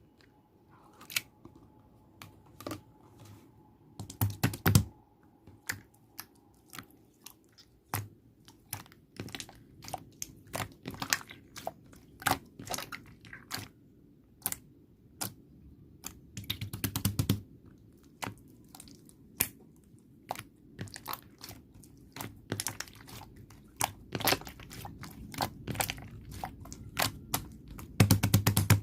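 Slime being squeezed and stretched by hand, making a run of sharp wet clicks and pops, with denser crackling bursts about four seconds in, again around the middle, and near the end.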